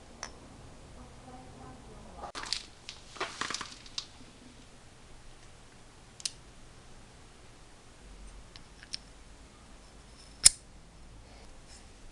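Small metal parts and hand tools clicking and rattling: a cluster of clicks and short rattles about two to four seconds in, then a few single sharp clicks, the loudest near the end.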